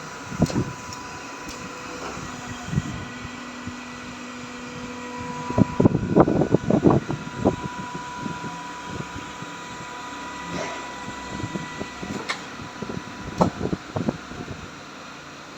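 Short clusters of knocks and clanks from work on a broken sheet-metal folding machine, over a steady machine whine. The busiest run of knocks comes about halfway through.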